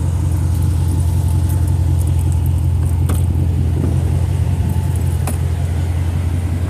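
5.7-litre Hemi V8 idling steadily through Flowmaster Super 44 mufflers with the resonator deleted, giving a deep, even exhaust hum. A couple of light clicks come about three and five seconds in.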